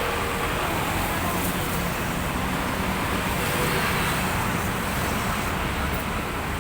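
Steady road traffic noise: an even hum and rumble of passing vehicles with no distinct events.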